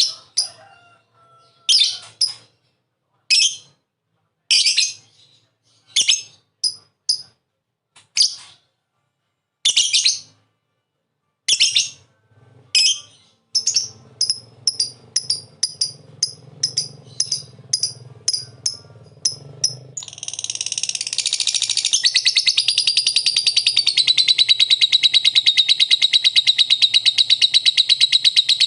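Lovebird giving loud, shrill separate chirps that come faster and faster, then about two-thirds of the way through breaking into one long, unbroken rapid chatter: the 'ngekek' song that lovebird keepers prize.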